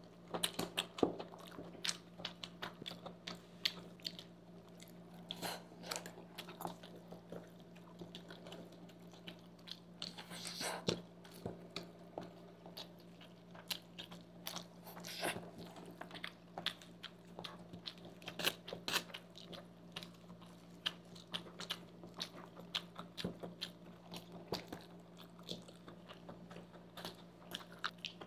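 Close-miked eating sounds of two people chewing forkfuls of sauced fusilli pasta: many short, wet chewing and mouth clicks in quick, irregular succession, over a faint steady low hum.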